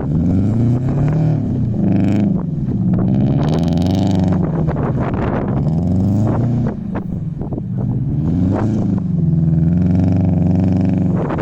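Subaru 2.5i flat-four with unequal-length headers, revving up and falling back again and again with its uneven boxer rumble while the car spins donuts in snow.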